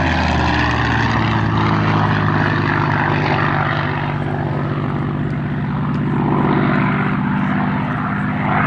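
Spitfire's V12 piston engine running in flight, a loud, steady propeller drone that swells and eases slightly as the aircraft flies by.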